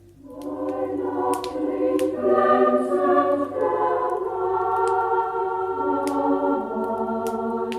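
Choir singing a Christmas song in slow, held chords, starting about a third of a second in. A few sharp crackles of a wood fire snap over it.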